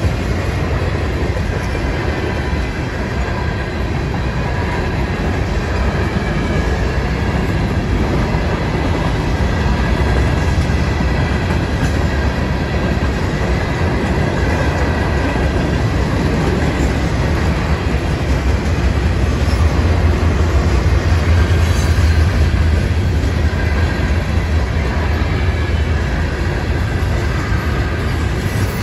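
CSX freight train cars rolling steadily past: a continuous rumble and rattle of steel wheels on the rails, a little louder about twenty seconds in.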